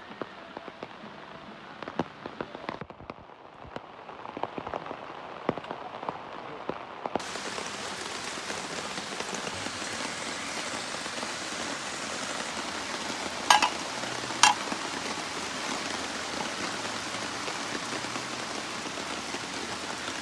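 Rain falling: scattered drops tapping at first, then about seven seconds in a steady, dense downpour. Two sharp knocks about a second apart stand out midway through.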